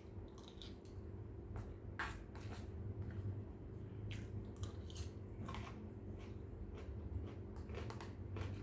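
A person eating shrimp and squid fried rice up close: chewing and wet mouth smacks, with scattered short clicks and snaps.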